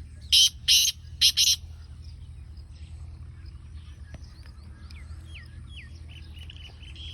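Black francolin calling: four loud, harsh grating notes in two pairs within the first second and a half, then faint chirps from other small birds.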